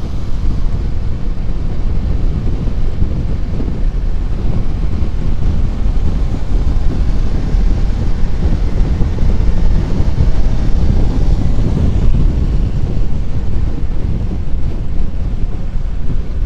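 Wind buffeting the microphone of a rider's camera on a moving motorcycle at road speed, a loud, steady rush with the motorcycle running beneath it.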